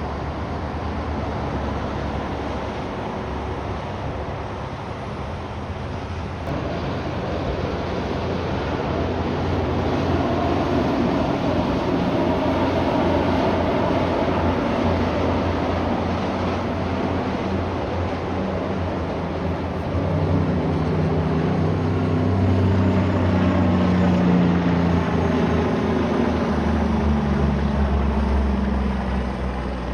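Heavy trucks passing on a road: steady tyre and engine noise that swells twice as rigs go by, the second with a clear deep engine note, fading right at the end.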